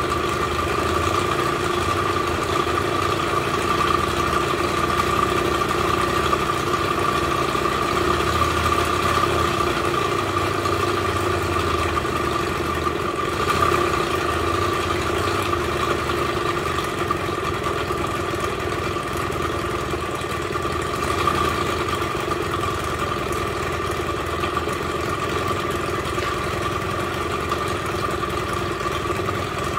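Suzuki Let's 2 scooter's 50 cc two-stroke engine idling steadily, with a steady high tone over the engine note. The owner hears it as an extraneous noise that he thinks sounds like a bearing, though he finds no play in the bearing.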